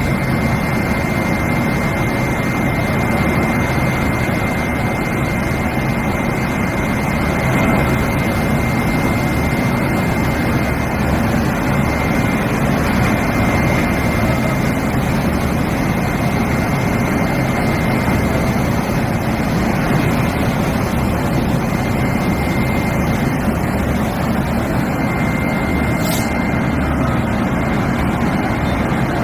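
Railway locomotive running steadily, with a constant noise and a thin high whine over it.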